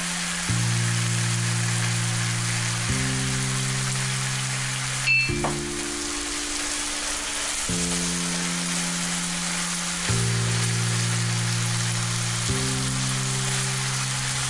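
Minced beef with onion and tomato sizzling in a frying pan as it is stirred with a wooden spoon, a steady hiss throughout. A short clink a little over five seconds in. Soft background music of slow held chords plays under it.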